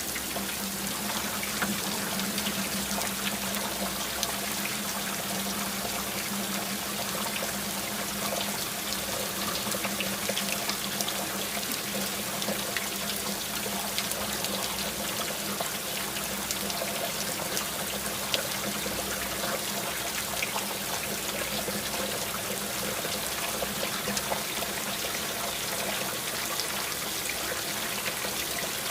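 Steady rain falling, a dense patter of small drops over an even hiss of water. A faint low hum sits under it through the first half.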